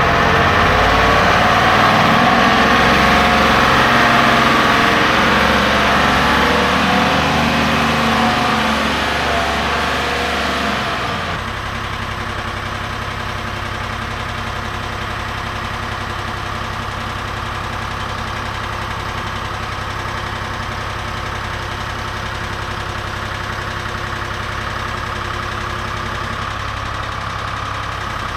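An engine running: louder and wavering in pitch for about the first eleven seconds, then it drops suddenly to a steady idle.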